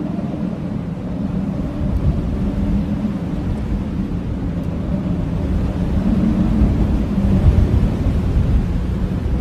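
Blizzard wind howling: a steady low rush with a wavering, moaning tone, swelling about two-thirds of the way through.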